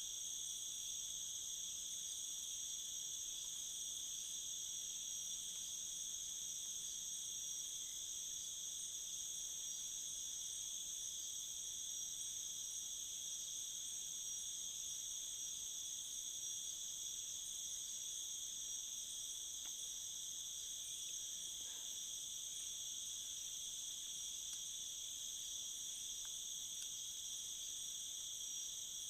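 Steady, unbroken insect chorus, several high-pitched trills layered at different pitches, with no pauses.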